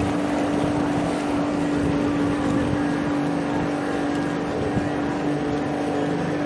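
Houseboat's outboard motor running at a steady speed, a constant drone.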